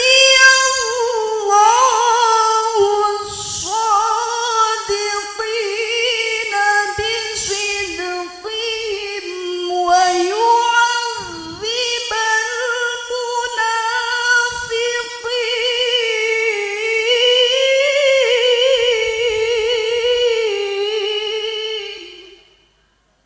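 A woman's voice reciting the Qur'an in the melodic, ornamented tilawah style, sustaining one long phrase with many rising and falling turns. The phrase ends about 22 seconds in.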